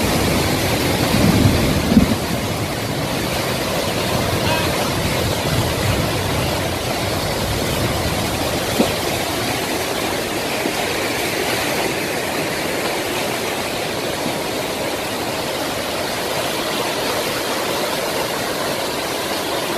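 Desert floodwater rushing and churning steadily after torrential rain, with a few low thumps in the first couple of seconds.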